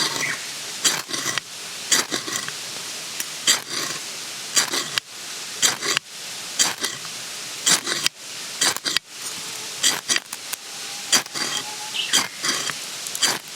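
An irregular series of sharp knocks, roughly one or two a second, over a steady background hiss.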